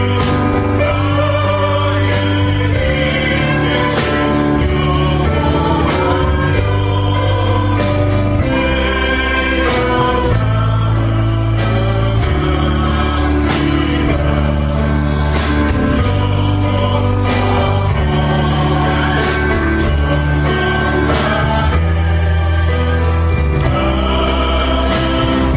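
A choir singing a Christian worship song with band accompaniment: sustained bass notes and a steady drum beat under the voices.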